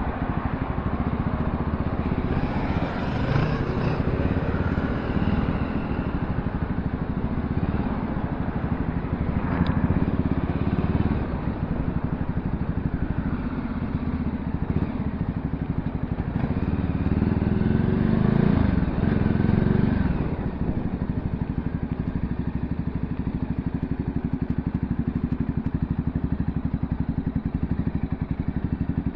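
Voge 300R motorcycle running on the road during a ride, a steady engine and road noise that swells briefly about two-thirds of the way through.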